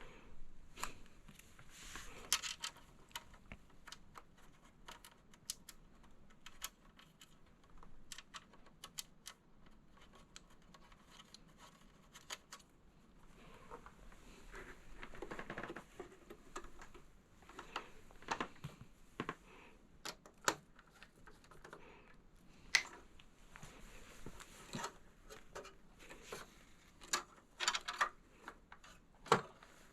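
Hands handling and fitting a SATA power splitter cable in a desktop computer: scattered light clicks and taps, with a longer stretch of rubbing and scraping about halfway through.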